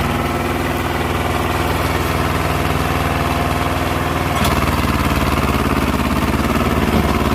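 Swaraj 724 tractor's two-cylinder diesel engine running steadily with a fast, even firing beat. About four and a half seconds in there is a click and the engine note shifts slightly.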